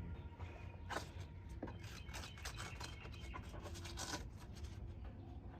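Irregular clicks and scraping from hand work on a car's brake booster and brake pedal linkage, strongest from about one to four seconds in, over a low hum.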